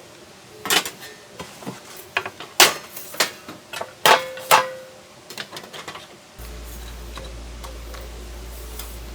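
Metal camping cookware or gear being handled: a run of sharp clanks and clicks, one of them ringing briefly. After about six seconds they stop and a steady low hum sets in.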